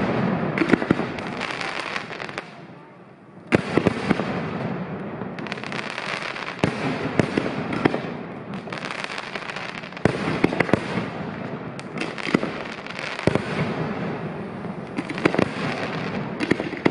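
Aerial fireworks shells bursting: repeated sharp bangs, often one or two a second, over a continuous crackle, with a brief lull about three seconds in.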